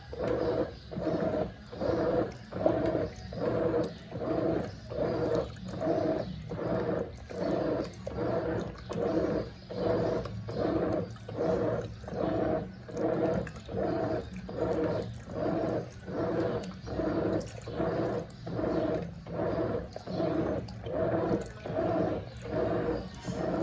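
Brastemp Eggo 1 kg mini washing machine running its wash cycle: the motor whirs in short, evenly spaced pulses, about one and a half a second, as the agitator swishes the water back and forth.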